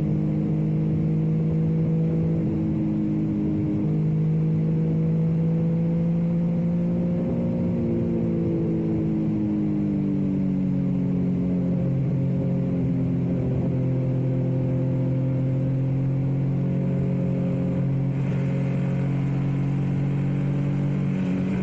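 Yamaha MT-09's three-cylinder engine running at highway speed. Its pitch climbs slowly, then falls away after about eight seconds as the bike eases off, and holds steady after that.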